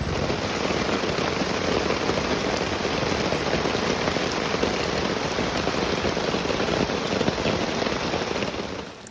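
Heavy rain falling steadily, a dense patter of drops that dies away near the end.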